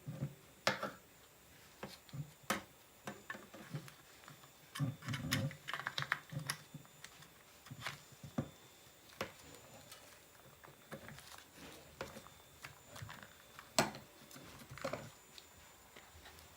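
Irregular clicks, taps and light knocks of small hard parts being handled during work on an electric drill, with a few louder knocks, the sharpest near the end.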